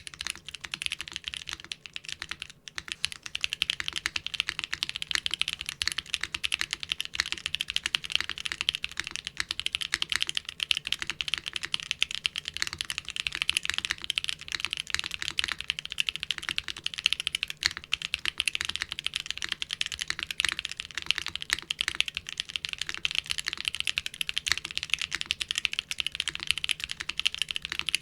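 Fast, continuous typing on a mechanical keyboard fitted with doubleshot keycaps, a dense run of clicky keystrokes and key bottom-outs. There is a brief pause about two seconds in.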